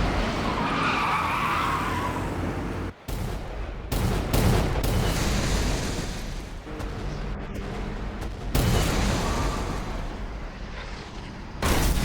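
Anime fight sound effects: a chainsaw-like motor revving amid skids and heavy impacts, broken by several abrupt cuts.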